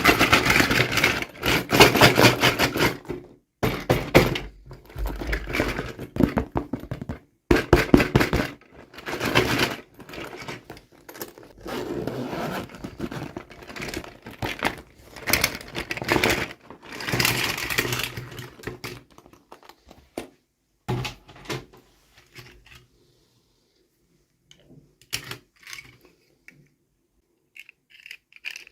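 Toy packaging being handled and opened: rapid crinkling, tearing and clicking of plastic and paper for about twenty seconds, broken by short pauses, then a few scattered light clicks and knocks near the end.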